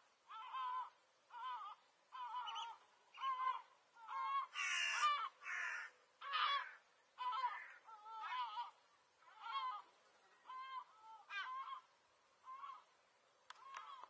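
A bird calling over and over: short, wavering cries a little over once a second, with a couple of louder, harsher ones about halfway through.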